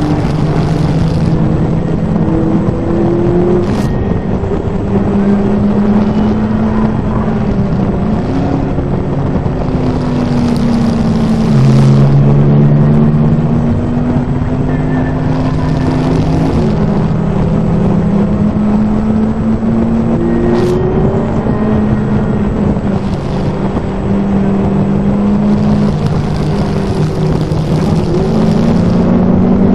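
A car engine running at driving speed, its pitch rising and falling slowly with the throttle, with a couple of sudden steps in pitch, over road and wind noise.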